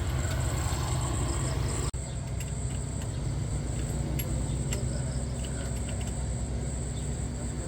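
Pickup truck engine idling steadily, with a steady high thin whine above it and a brief dropout about two seconds in.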